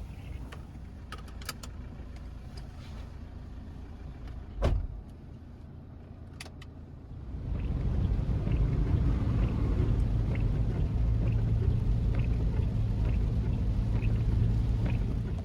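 A motor vehicle running, a low rumble with a steady hum that grows louder about halfway through. There is a single thump at about four and a half seconds and a few light clicks early on.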